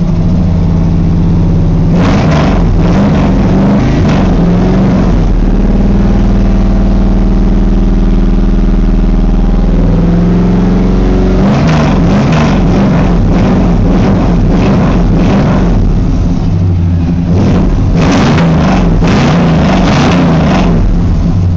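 1995 Chevy Silverado 1500's 355 small-block V8, still cold just after starting, running through Flowmaster Super 10 mufflers with the catalytic converters still on. It is revved in a run of quick blips, settles to a steady idle for a few seconds, then is blipped again in two more runs.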